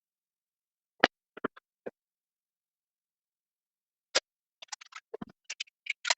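Sharp, separate clicks and knocks from work on plywood parts: a loud snap about a second in followed by a few light taps, another loud snap just after four seconds, then a quick run of lighter clicks and knocks near the end.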